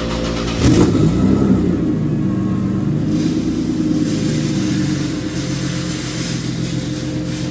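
Turbocharged Nissan 370Z's 3.7-litre V6 running on a chassis dyno. About half a second in the engine note changes suddenly and gets louder, then its pitch wanders up and down as it revs.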